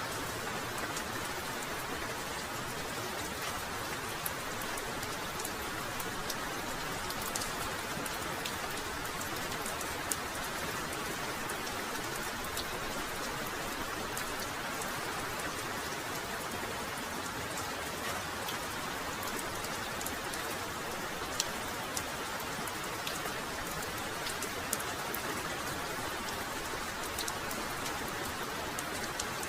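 Heavy rain falling in a steady hiss, with individual drops ticking sharply now and then.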